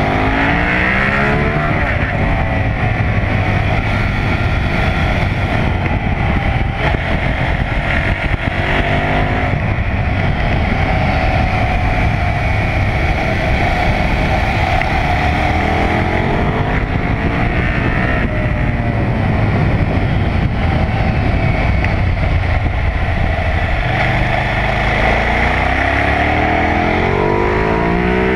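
KTM 990 SMR's V-twin engine under hard track riding, revving up through the gears and falling back for corners several times over, with constant wind rush on the microphone.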